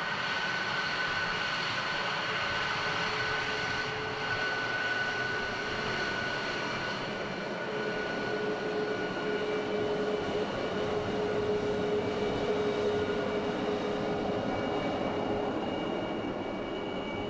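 Jet aircraft engine running steadily: a continuous rush of noise with several high, held whining tones over it.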